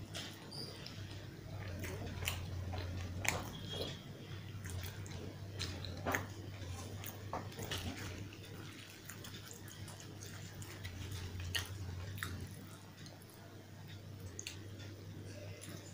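Close-miked chewing of puri with potato curry: wet mouth clicks and smacks scattered throughout, along with the squish of curry-soaked puri being torn and scooped by hand, over a steady low hum.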